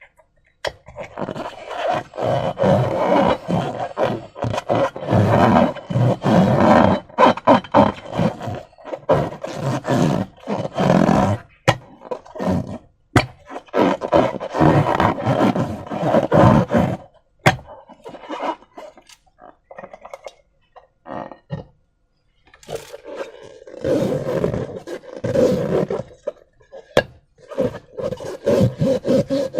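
Slime and rubber balloons being squeezed and worked by hand: a dense run of sticky crackles and small clicks, thinning to a brief pause about two-thirds of the way through before starting again.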